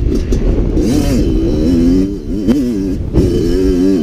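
Kawasaki KX112 two-stroke dirt bike engine revving hard under load on a hill climb, its pitch rising and falling with the throttle and dropping out briefly twice. A low wind rumble runs underneath.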